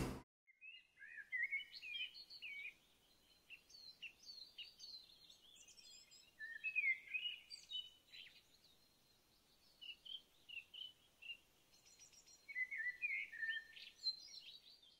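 Faint birdsong: a songbird singing quick, varied phrases that jump up and down in pitch, in about four bursts a few seconds apart with short pauses between.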